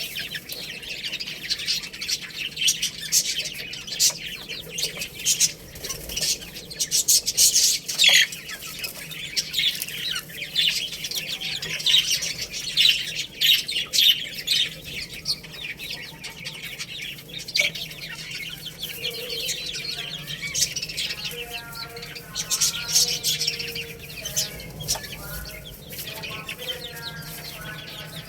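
A group of chicks peeping steadily, many short high chirps overlapping. In the last third some lower, longer calls join in.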